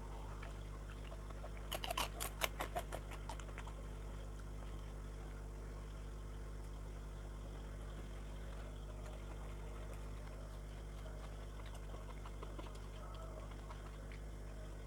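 Eating sounds: a quick run of about ten sharp crunches or clicks about two seconds in, then faint chewing, over a steady low hum.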